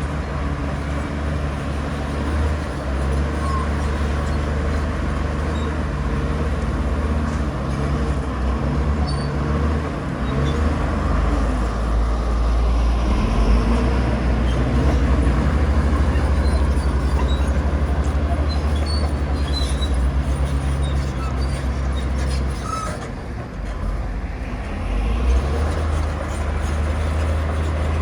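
Heavy diesel earthmoving machinery running steadily with a deep engine hum, working harder through the middle and easing off briefly near the end.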